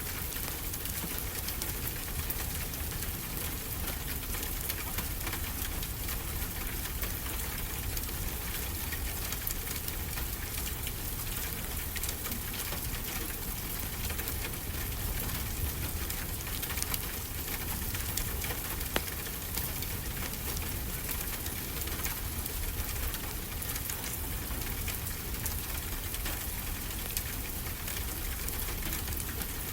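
Steady rain with a low rumble underneath, mixed with the soft, occasional crackle of a wood fire in a fireplace.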